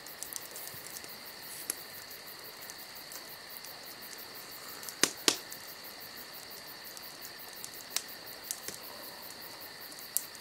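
Crickets chirping steadily in a rapid, continuous insect chorus. Two sharp clicks stand out about five seconds in.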